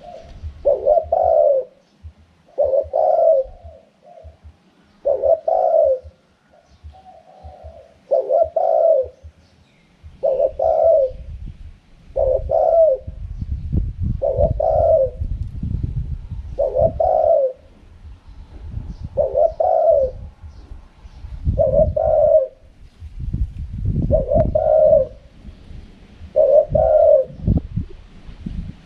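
Spotted dove cooing its wild song, the same short coo phrase repeated about every two seconds. A low rumble runs underneath at times.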